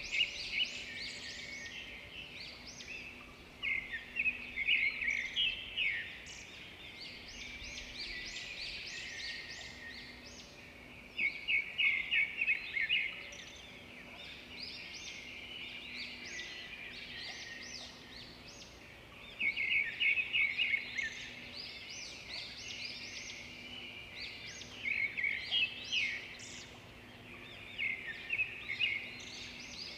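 Chorus of small songbirds: many overlapping chirps and trills, with a loud burst of rapid repeated notes every few seconds.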